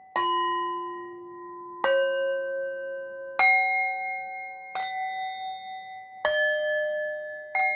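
Meditation background music of struck bell-like tones, six strikes about one and a half seconds apart. Each sounds a different pitch and rings on until the next.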